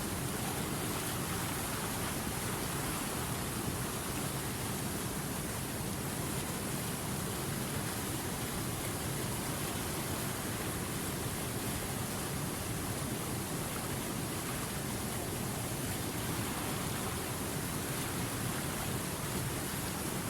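River water rushing steadily over rocks, a constant even rush with no separate splashes or changes.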